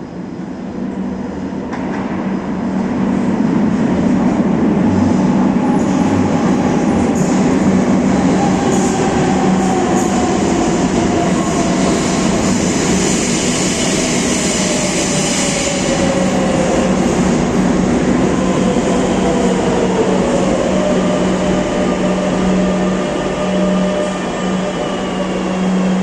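Metro de Madrid 7000-series electric train pulling into a station. It grows louder over the first few seconds, then runs steadily over a low hum, with a whine that falls slowly in pitch as the train slows.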